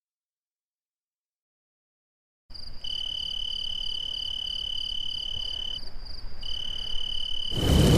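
A steady high-pitched tone with a fast pulsing trill above it, like a chirping insect or frog, starting about two and a half seconds in and breaking off briefly around six seconds. Near the end a much louder, harsh noisy blare comes in over it.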